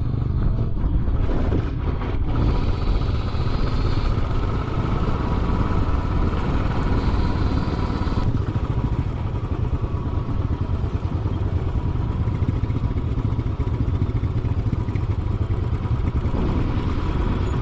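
Royal Enfield Classic 500's single-cylinder engine running steadily, a dense low sound that stays even throughout.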